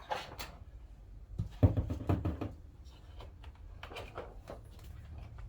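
Light knocks and clatter of box pieces being handled and set down, with the sharpest knock about a second and a half in and a few more around four seconds.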